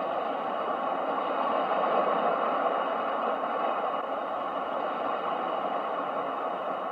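Ocean waves: a steady wash of surf that swells to a peak about two seconds in and then slowly eases.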